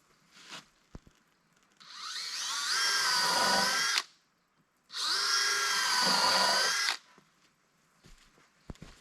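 Power drill running in two bursts of about two seconds each, the first rising in pitch as it spins up.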